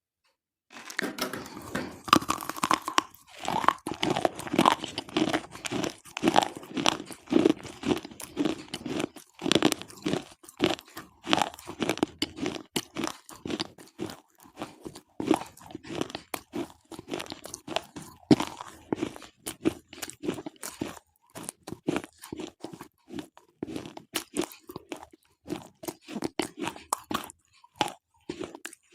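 Slate pencils being bitten and chewed close to the microphone: dense, sharp crunching and crackling that starts about a second in and goes on with only brief pauses.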